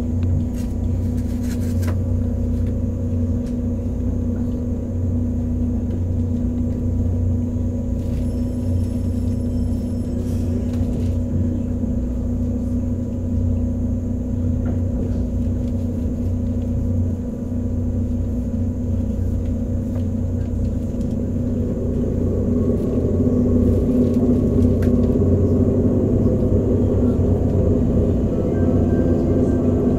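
Interior running noise of a 485-series electric train: a steady low rumble with a constant hum. About two-thirds of the way through it grows louder and more tones join in as the train slows into the station.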